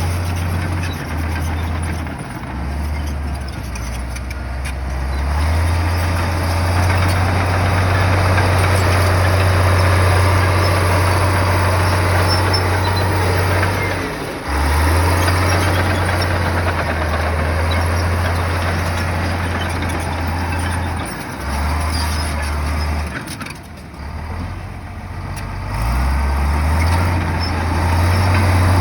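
Heavy bulldozer's diesel engine working under varying load, a deep drone with rough mechanical noise over it. The drone drops away briefly about halfway through and again for a couple of seconds near the end.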